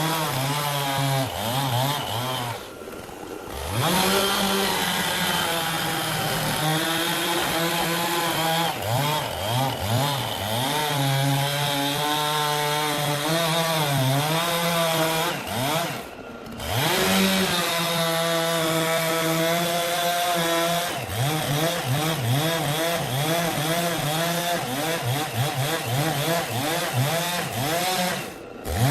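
Two-stroke chainsaw cutting through wood. The engine speed keeps rising and sagging as the chain works under load, and the sound cuts out briefly three times.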